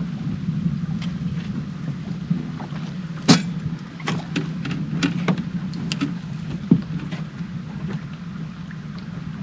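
Steady low hum and wind noise on a small fishing boat, dulled by heavy noise reduction. Scattered sharp knocks and clicks from handling on the boat break through, the loudest about a third of the way in.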